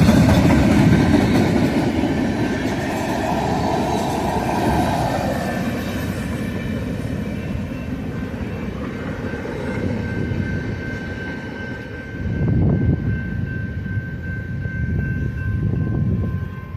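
Freight train cars rolling past on the rails, a dense rumble that is loudest at first and then eases off. A thin, steady high whine runs through the second half.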